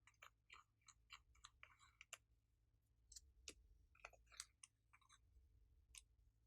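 Faint, irregular wet clicks and pops of glossy slime being worked and mixed, several a second, a few sharper than the rest.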